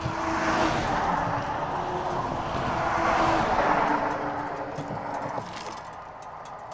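Harley-Davidson Road King's V-twin engine and exhaust running with rushing wind on the move, getting quieter over the second half as the bike slows. Light ticking near the end.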